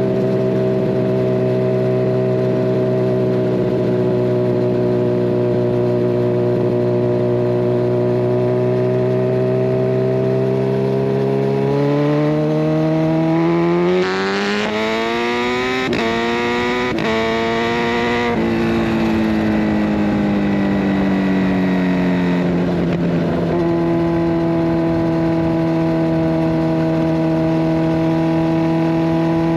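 Kawasaki Ninja 1000SX inline-four running through a de-catted Scorpion Red Power exhaust, ridden at a steady note at first. About twelve seconds in it accelerates, the pitch climbing with a couple of short breaks. After that the revs fall away and it settles to a lower steady drone.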